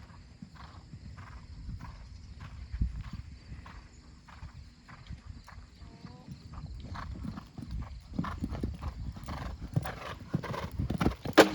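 A ridden horse's hoofbeats on arena footing in a steady rhythm, growing louder and busier after about eight seconds, with one loud sharp thud near the end.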